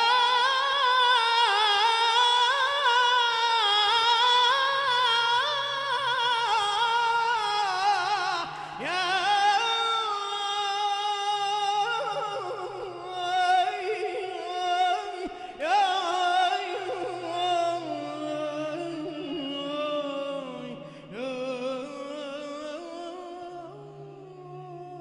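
A single voice singing long, wavering, ornamented notes in an Iraqi-dialect devotional song praising Imam Ali. It comes in four or five long phrases, each starting with a sharp rise in pitch, and grows softer toward the end.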